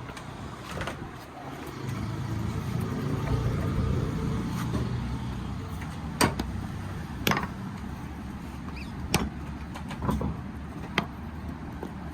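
Metal tools clinking sharply against steel front-suspension parts during dismantling, about five separate strikes in the later half, over a low steady rumble.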